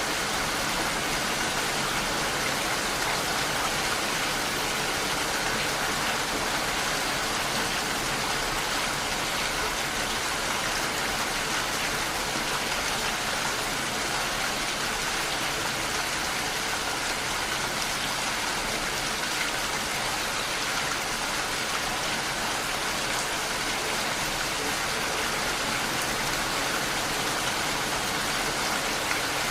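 Steady rain falling, an even continuous hiss of drops with no thunder or other events.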